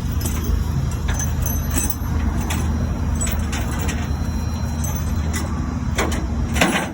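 Motor vehicle on the move: a steady low rumble of engine and road noise, with a few light clicks.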